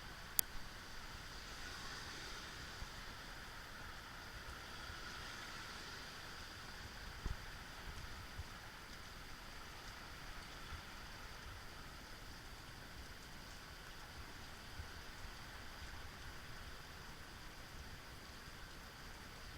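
Rain falling steadily, an even hiss, with a sharp click about half a second in and a dull knock about seven seconds in.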